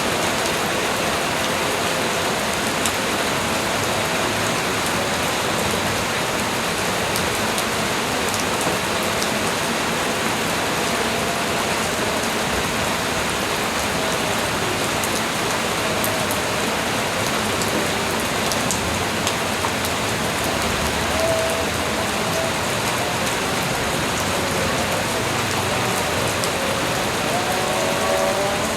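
Steady light rain falling, an even hiss of drops on surfaces, with faint wavering tones now and then beneath it.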